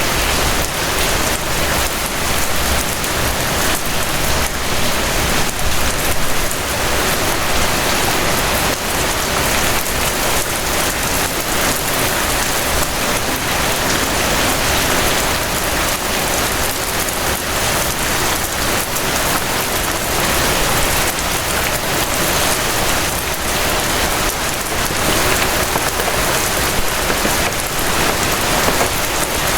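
Steady rain falling: a dense, even hiss with a fine patter of drops throughout.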